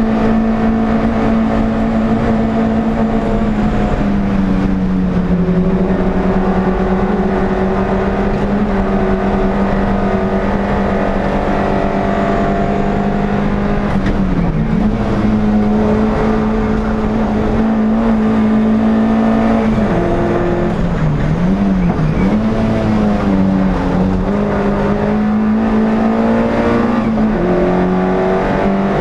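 In-car sound of an NSU TT race car's air-cooled four-cylinder engine running hard at high revs. The pitch steps down with gear changes about four seconds in and again near the end, and wavers and dips briefly where the driver lifts for corners.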